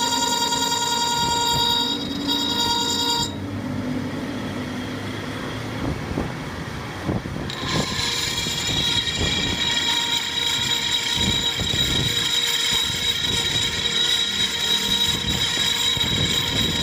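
Workshop machinery whining steadily with held high tones. The pitch pattern changes abruptly about three seconds in, and again midway through.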